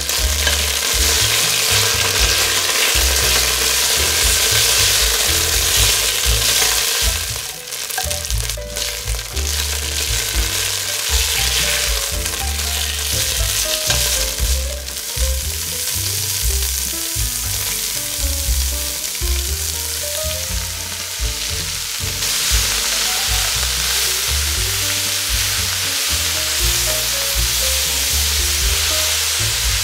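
Vegetables sizzling steadily in hot oil in a stainless steel pot, first fennel and garlic, then chopped leek, as a spatula stirs and scrapes them. Soft background music runs underneath.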